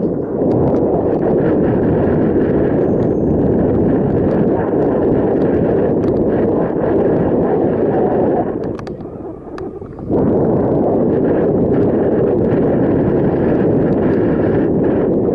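Wind buffeting the microphone of a camera carried on a moving bicycle: a steady, loud, low rush that eases for about a second and a half just past the middle, then comes back.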